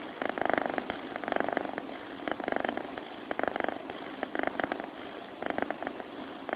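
Sleeping cat purring, a fine rattling flutter that swells and eases with each breath, about one breath a second.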